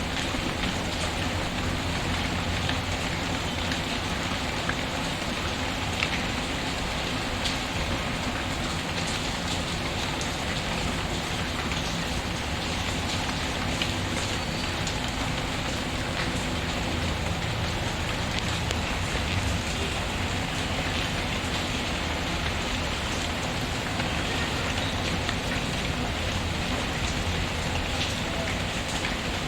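Steady rain falling on a surface, with occasional faint crackles from a burning wood fire.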